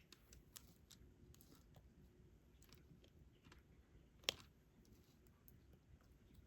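Faint scattered clicks and taps of a diamond-painting stylus picking up drills and pressing them onto the canvas, with one sharper click about four seconds in.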